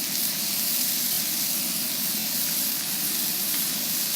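Coated chicken pieces frying: a steady sizzling hiss.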